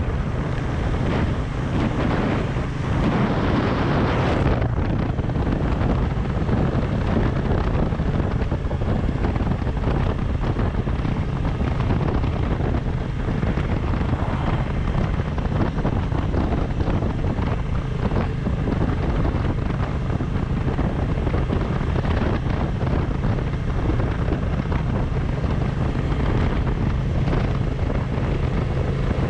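Wind rushing over the microphone on a moving Suzuki V-Strom 1050XT, with the bike's V-twin engine droning steadily underneath. The rush swells briefly about three to four seconds in.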